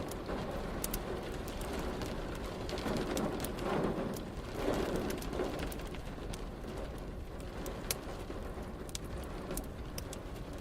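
Wood fire crackling with scattered sharp pops over a steady hiss of rain. A low rumble of thunder swells about three seconds in and fades a few seconds later.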